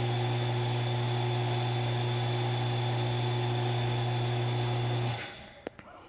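Steady electrical hum with several overtones and a faint high whine, cutting off abruptly about five seconds in; a faint click follows.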